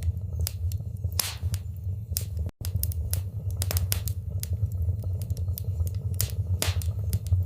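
Wood fire burning in a fireplace: irregular sharp crackles and pops over a steady low rumble of the flames. The sound cuts out for an instant about two and a half seconds in.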